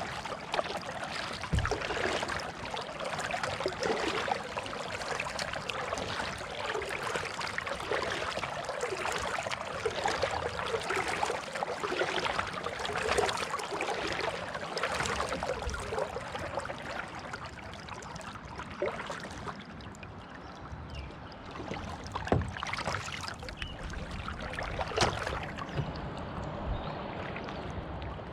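Kayak paddle dipping into and pulling through the water in regular strokes, with splashing and dripping about every couple of seconds. Two sharp knocks come near the end.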